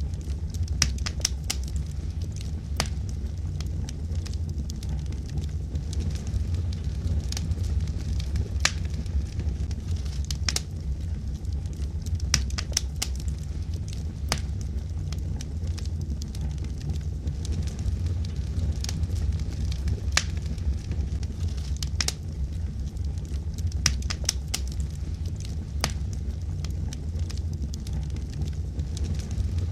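Wood logs burning in a fireplace, crackling and popping with sharp irregular snaps over a steady low rumble of the fire.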